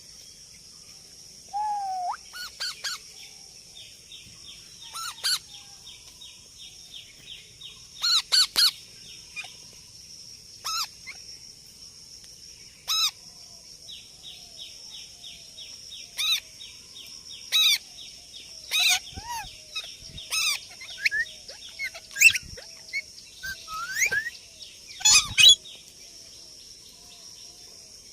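A parrot giving short, sharp calls and squawks at irregular intervals, about a dozen, some rising in pitch. Behind them run a steady high-pitched buzz and, in two long stretches, a fast pulsing trill.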